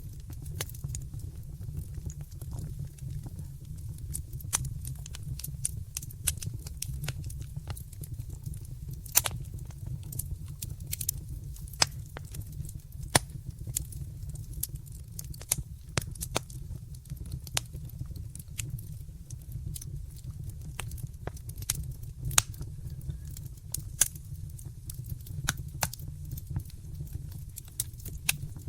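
Wood fire in a fireplace crackling, with frequent sharp, irregular pops and snaps over a steady low rumble of flame.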